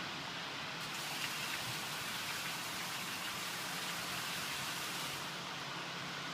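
Steady rain falling during a thunderstorm, a brighter, heavier hiss for a few seconds in the middle.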